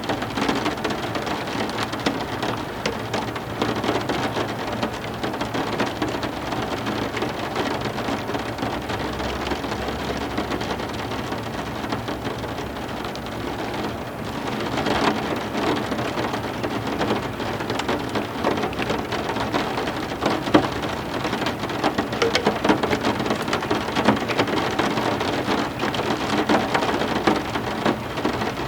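Heavy rain falling steadily, a dense hiss of drops pattering on hard surfaces, with a low rumble about a third of the way through.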